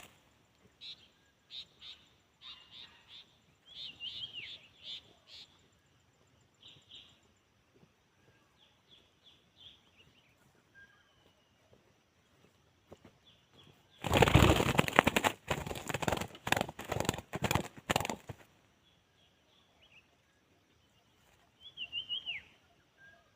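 A spotted dove flapping its wings in a run of loud, fluttering bursts lasting about four seconds, a little past the middle. Small birds chirp in short high calls throughout.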